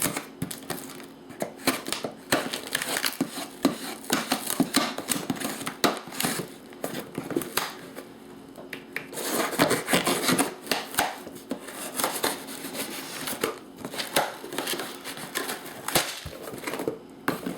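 A parcel being opened and unpacked by hand: packaging crinkling and rustling, with irregular knocks and some tearing.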